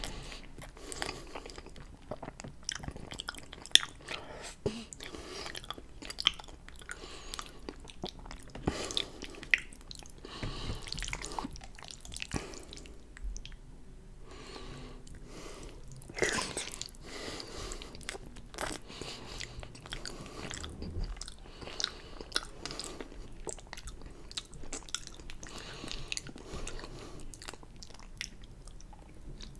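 Close-miked chewing and slurping of wide flat noodles in chili cheese sauce, with irregular sharp wet mouth clicks.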